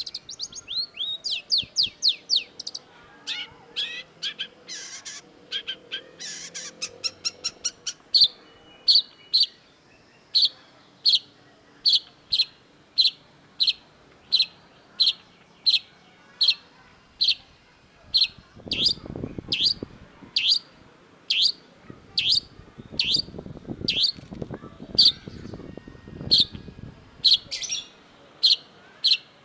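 Long-tailed shrike singing: a fast run of falling notes, then a long series of sharp, evenly spaced notes that drop in pitch, about one and a half a second. A low rumble sits underneath for a while in the second half.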